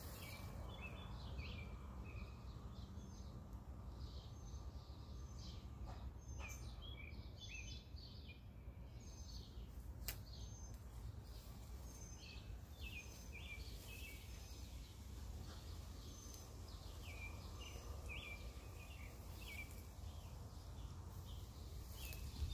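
Small birds chirping over and over in short, quick notes, with a low steady rumble underneath.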